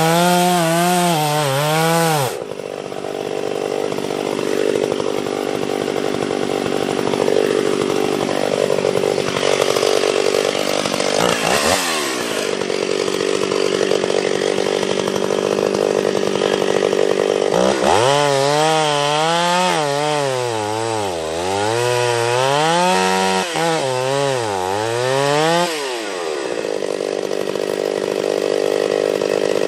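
Chainsaw cutting into a tree trunk, running hard, its pitch repeatedly dipping and recovering as the chain loads up in the cut. The revs drop briefly about 11 to 12 seconds in.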